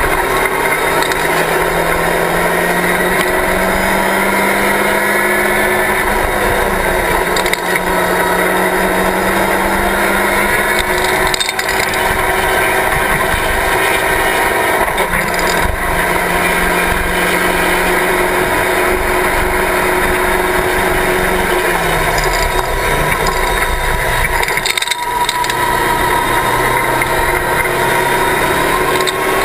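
Locost race car's engine running hard under racing load, heard from the open cockpit, its pitch rising and falling through the lap. The pitch steps down twice, then the sound briefly breaks, about three-quarters of the way through.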